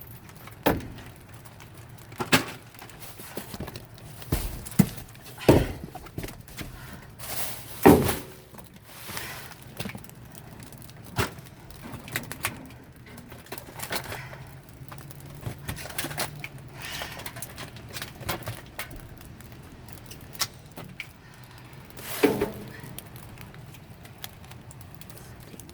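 Scattered knocks, thuds and rustling of boxes and packaged goods being grabbed and shifted in a dumpster, irregular and sudden, with a louder scraping clatter about eight seconds in and another near the end.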